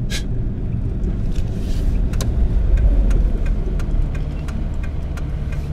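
Car driving, heard from inside the cabin: a steady low engine and road rumble with scattered light ticks.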